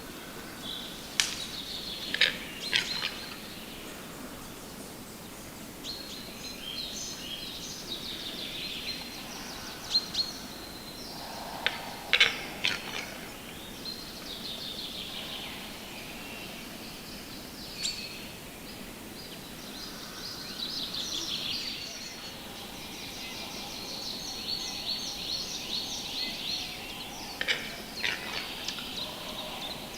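Birds calling and singing, with chirping and trilling phrases throughout and a few sharp, loud clicks scattered among them.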